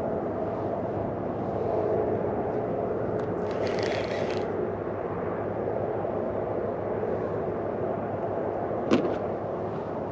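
Boat motor running steady with a low hum. There is a brief hiss about four seconds in and a sharp click near the end.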